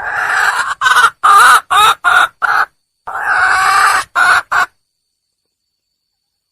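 Red junglefowl hen calling: one long cackling call, a quick series of five short clucks, a second long call, and two more short clucks, stopping about two-thirds of the way through. This is a hen's call for a mate.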